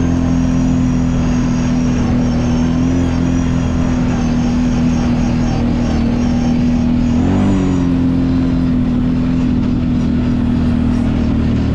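Kawasaki Brute Force 750 ATV's V-twin engine running steadily under way, with a brief rise and dip in pitch about seven seconds in.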